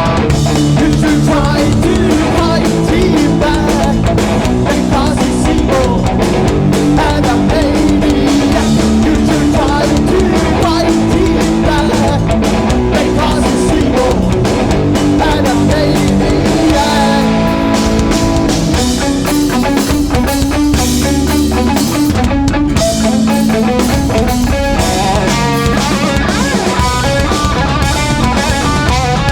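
Oi punk band playing live at full volume: distorted electric guitars, bass and drum kit. About two-thirds of the way through, the music changes to a choppier, driving guitar-and-drum section.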